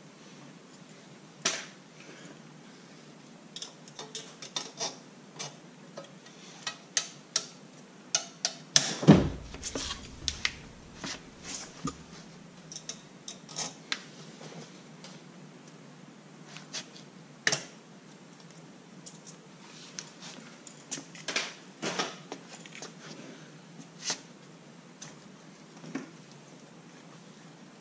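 Irregular metallic clinks, taps and knocks from hand tools and parts during removal of a motorcycle's slip-on exhaust, with one heavy clunk about 9 seconds in.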